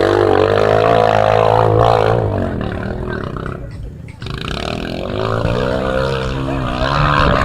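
Engines of Chinese-made motocross motorcycles running hard as the bikes race past. One engine note holds steady and then fades over the first few seconds, and another builds again after about four and a half seconds.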